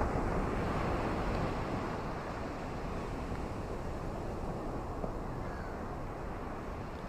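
Ocean waves washing onto a beach: a steady rushing surf noise, a little louder in the first second or two, then easing.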